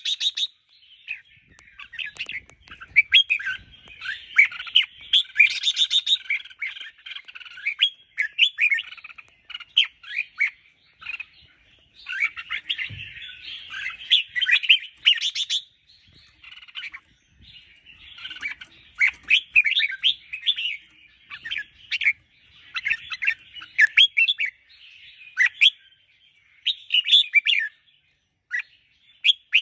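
Red-whiskered bulbul singing: quick, bright chirping phrases, one after another with short pauses between them.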